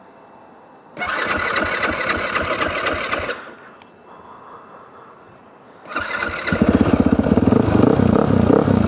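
Supermoto motorcycle being started: the starter cranks for about two and a half seconds without the engine catching, then on a second try a few seconds later the engine fires almost at once and keeps running. It is slow to start.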